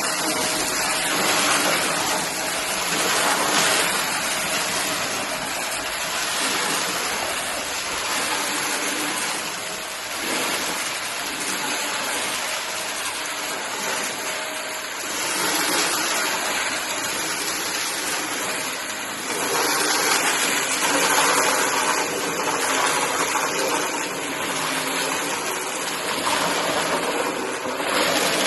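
Shark vacuum cleaner running with a steady rushing airflow while vacuuming up a cardboard mess, its loudness swelling and dipping a few times.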